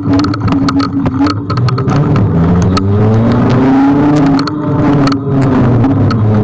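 Ride noise on a Kugoo G1 electric scooter in traffic: a steady rumble with many sharp rattling clicks from bumps. In the middle, a vehicle engine's pitch rises and then falls.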